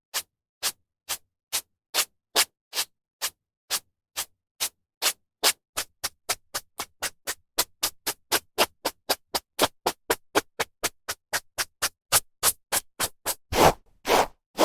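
Hairbrush bristles drawn through hair in quick, short, repeated strokes, each a brief scratchy swish with a gap between. About two to three strokes a second at first, speeding to about four a second, with a few louder, fuller strokes near the end.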